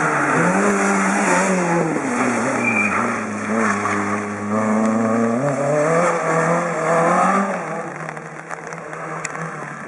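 Rally car engine at high revs, its note rising and falling several times with throttle and gear changes, then fading in the last couple of seconds as the car moves away.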